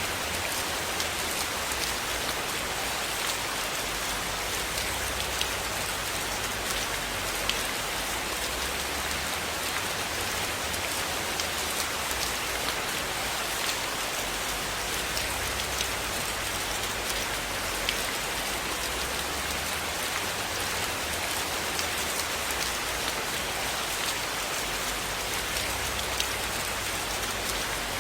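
Steady rain falling on a surface, a dense even hiss with scattered sharp ticks from individual drops or pops.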